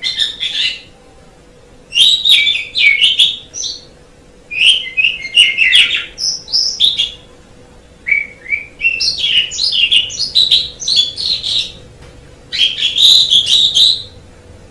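Asian pied starling (jalak suren) singing loudly in five bursts of fast, varied chattering and whistled notes, with short pauses between them. A faint steady hum runs underneath.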